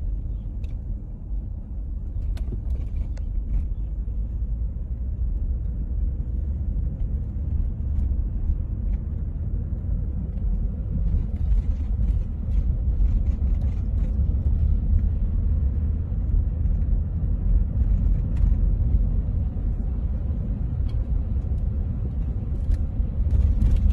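Storm wind buffeting the microphone as a deep, gusty rumble that swells and eases, with scattered faint ticks over it.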